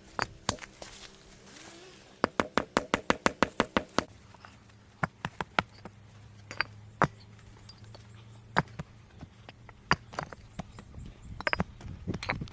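Bricks being set on a sand bed and knocked into place with a mallet: a fast run of a dozen or so sharp knocks about two seconds in, then scattered single knocks.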